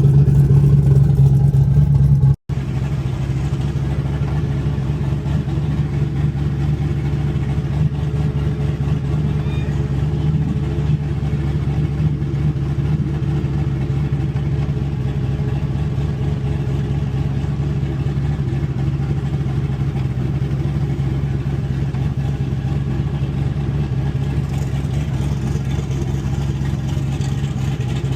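Car engine running at a steady pitch while driving, with a brief dropout about two and a half seconds in.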